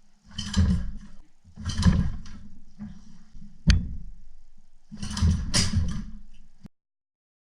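Old 1972 Hirth engine being cranked over in three attempts to start it, each lasting about a second, with a sharp click between the second and third. The engine barely runs.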